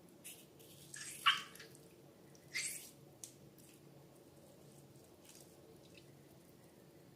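Wet, sticky slime squelching and dripping in a few short splats over the first three seconds, the loudest about a second in, then only faint handling.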